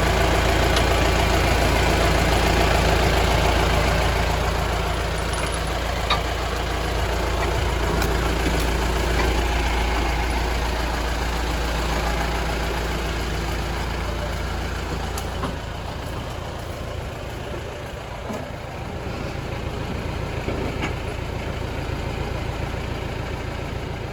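A 4x4 vehicle's engine running steadily with a deep low rumble, which drops off and grows fainter about two-thirds of the way through. A few faint knocks sound over it.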